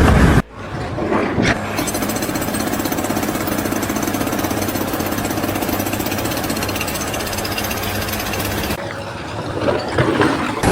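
Jackhammer hammering at a rapid, steady rate, starting a little under two seconds in and stopping abruptly near the end.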